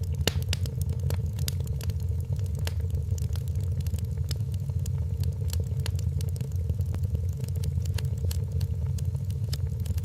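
Wood fire crackling in a fireplace: many sharp, irregular snaps and pops over a steady low rumble of the burning fire.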